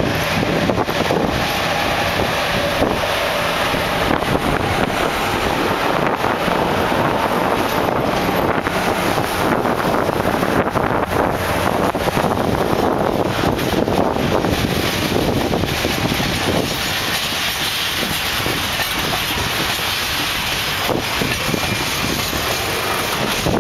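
China Railway class 8K electric freight locomotive passing close, followed by a long train of freight wagons rolling by. There is a steady rumble of wheels on rail, with repeated clicks from the wheels.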